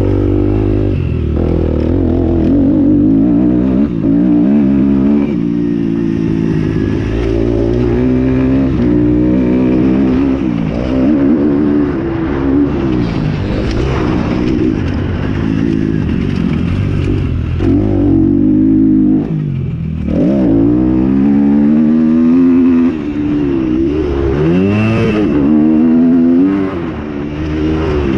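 Motocross motorcycle engines running hard, revving up and dropping back again and again as the bikes go around the track.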